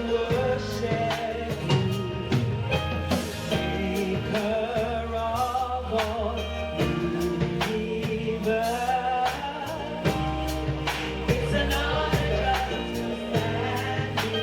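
Live gospel worship music: a praise team singing with a band, with bass and a steady drum beat.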